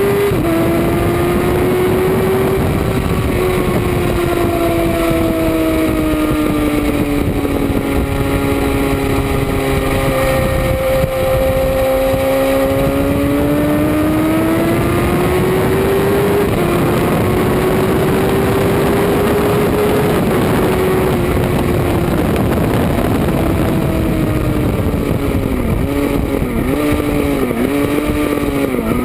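Motorcycle engine pulling hard around a racetrack over heavy wind rush, its pitch slowly falling and rising as the rider works through the gears. Near the end the pitch dips sharply several times in quick succession.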